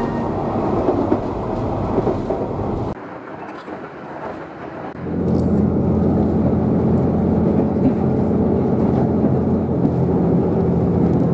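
Interior running noise of a KiHa 71 series Yufuin no Mori diesel railcar: a rumble of wheels on track, which drops away suddenly about three seconds in. From about five seconds in a steady low diesel engine drone carries through to the end.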